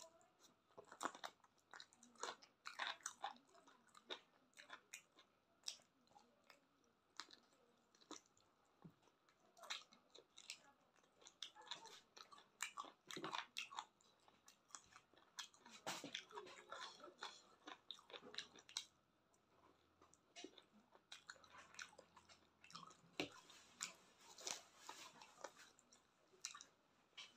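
Close-up mouth sounds of a person eating chicken feet with rice by hand: chewing and biting, heard as many short, irregular clicks and snaps.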